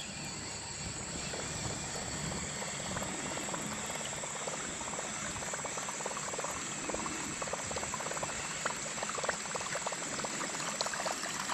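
Creek water trickling and bubbling, full of small crackles, under a steady high-pitched drone of insects.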